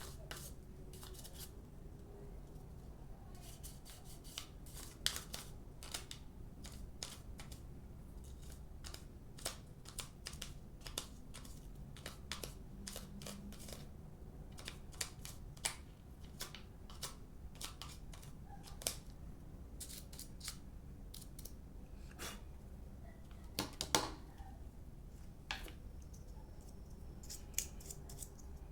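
Irregular small, sharp clicks and snips from hand work on the parts of an opened hair dryer, a few louder ones standing out, over a faint steady low hum.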